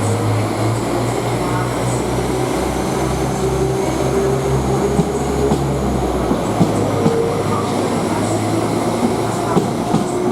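Passenger train pulling out of the platform: a steady low running hum with faint wheel squeal, and sharp clicks of the wheels over rail joints and points in the second half.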